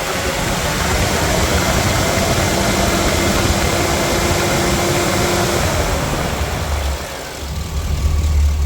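GM 6.0L gasoline V8 engine running, its speed shifting. It dips briefly quieter about seven seconds in, then runs louder with a deeper rumble near the end.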